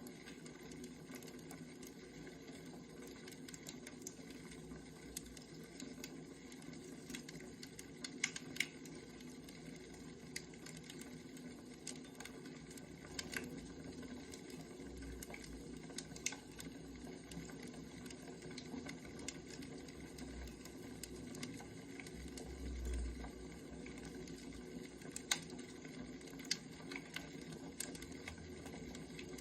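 Firewood fire crackling steadily, with scattered sharp pops of the burning wood.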